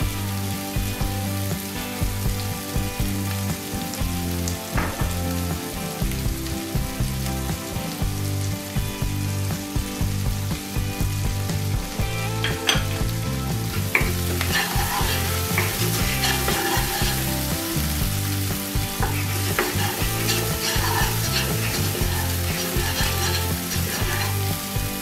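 Spice paste of ginger, garlic, onion and ground spices sizzling steadily as it fries in oil in a nonstick frying pan. From about halfway through there are more crackles and scattered clicks, and near the end a wooden spoon stirs and scrapes the paste around the pan.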